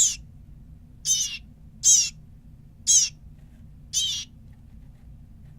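Baby bird giving a series of short, high-pitched calls, five in a row at about one a second, the repeated calling of a young bird being hand-reared.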